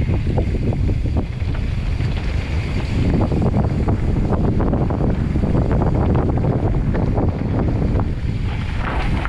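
Mountain bike descending fast over rocky trail: wind rushing over the microphone and tyres rumbling over rock, with many quick clicks and rattles from the bike.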